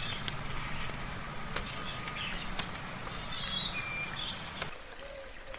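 Steady soft rain with scattered drops ticking, and birds calling in short clear whistled notes through the middle of it. A low rumble underneath stops abruptly near the end.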